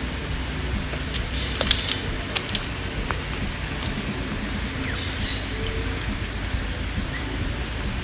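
Outdoor ambience with scattered short, high bird chirps, the loudest about four seconds in and near the end, over a steady high-pitched whine. There are a few sharp clicks early on.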